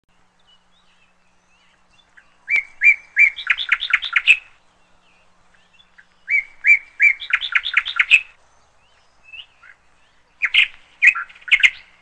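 A bird singing three phrases a few seconds apart, each a few clear, even notes followed by a quick run of notes; the third phrase is shorter and broken up.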